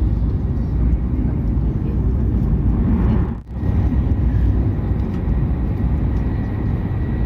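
Hokuriku Shinkansen train running at speed: a steady low rumble of running noise, which drops out briefly about halfway through.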